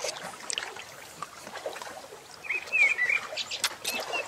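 A small bird chirping: a short twittering call about two and a half seconds in, over faint scattered clicks.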